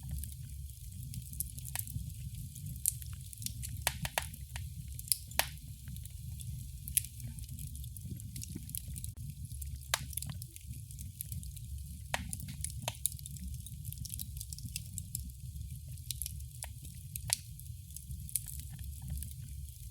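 Wood fire crackling in a fireplace: irregular sharp pops and snaps, a few of them louder, over a steady low rumble and soft hiss of the burning.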